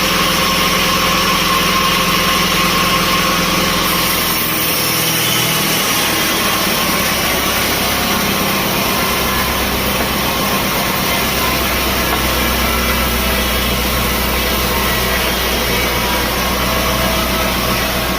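Sawmill machinery engine running steadily, its low note shifting about four seconds in and again near nine seconds.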